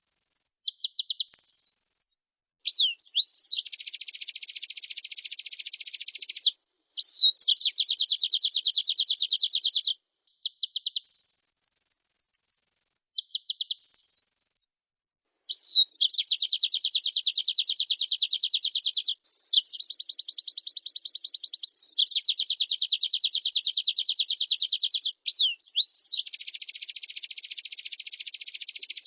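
Pleci (white-eye) singing hard in long, fast, buzzy trills lasting several seconds each, separated by short pauses and quick sweeping notes, with a few shorter, very high, bright phrases at the start and about halfway through.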